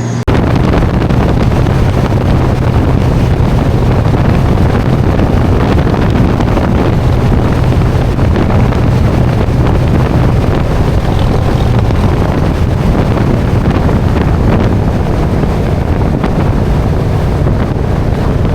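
Wind rushing over the microphone of a motorcycle cruising at highway speed, with the engine's steady low drone underneath. It comes in loud just after the start and holds steady.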